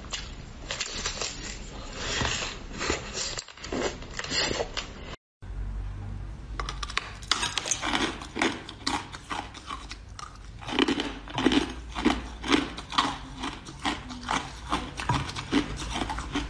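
Close-up eating sounds. First comes biting and chewing of a chocolate-coated ice cream bar. After a brief dropout about five seconds in, loud crunching bites and chewing of a hard, crystal-textured star-shaped sweet follow, settling into regular crunches about two a second near the end.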